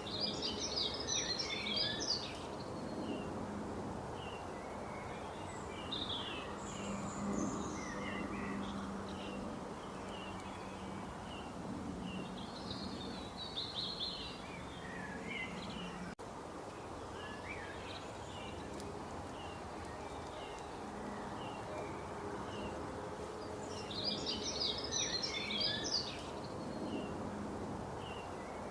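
Several birds chirping and trilling over a steady background hiss, with dense flurries of calls near the start and again near the end.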